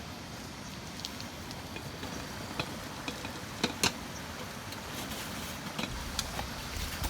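Steady rain falling, with scattered louder drops ticking, two of the sharpest close together near the middle.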